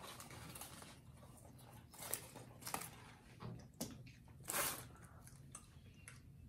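People eating burgers and fries: soft chewing and mouth noises with a few short sharp sounds scattered through, the loudest about four and a half seconds in.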